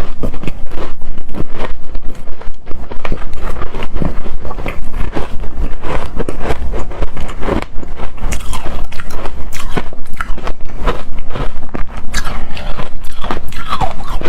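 Close-miked biting and chewing of frozen shaved ice: dense, rapid crunching and crackling.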